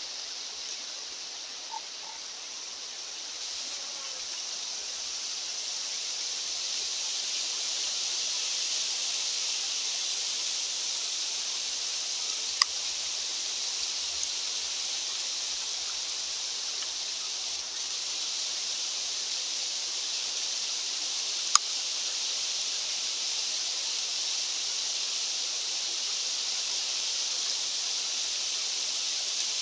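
Steady hiss of mountain wind, growing a little louder over the first several seconds, with two sharp clicks about twelve and twenty-one seconds in.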